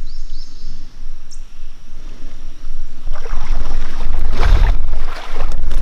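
Creek water sloshing and splashing close to the microphone, with a low rumbling noise that grows much louder about three seconds in.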